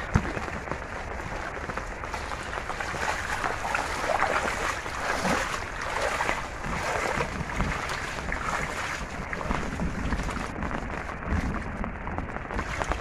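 Shallow water sloshing and splashing irregularly, as when hands work through flooded ground, with a noisy rush underneath.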